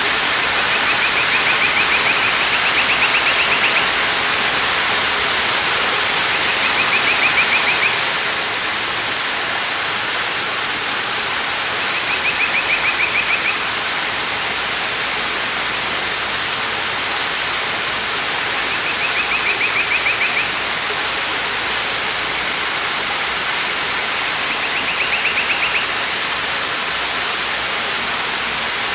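Waterfall rushing steadily. Over it, a high, rapid trill comes five times, each lasting one to three seconds, about every six seconds.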